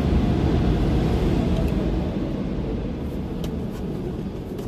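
Automatic car wash air dryers blowing on the car, heard from inside as a steady low rush that gradually fades.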